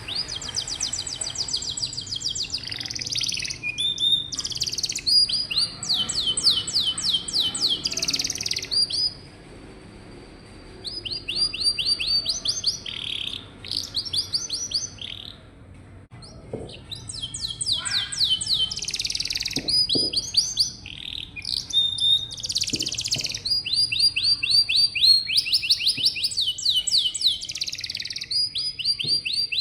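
Domestic canary singing: fast trills of rapidly repeated notes in long phrases, with short pauses about nine and fourteen seconds in.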